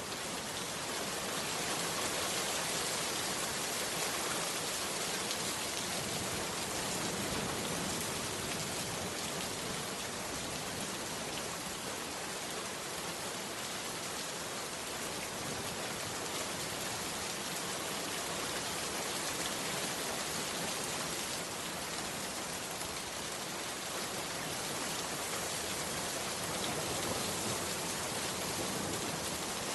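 Heavy rain falling steadily, a dense even hiss of many drops with no breaks.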